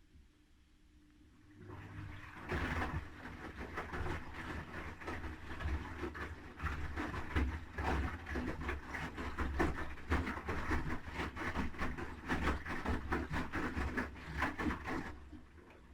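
Haier I-Pro Series 7 washing machine drum turning the wet load, with a low motor hum and the churning, sloshing noise of clothes and water tumbling. It starts about two seconds in, runs for about thirteen seconds and stops shortly before the end, a normal tumble-and-pause step of a wash cycle.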